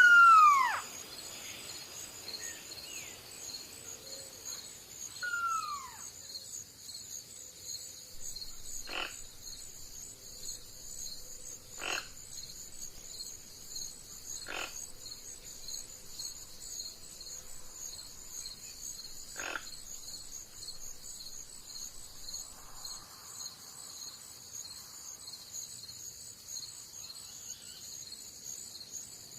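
A steady, evenly pulsing insect chorus, likely crickets, with an animal call falling steeply in pitch twice, loudly at the very start and again about five seconds in. Four short sharp calls follow over the next fifteen seconds.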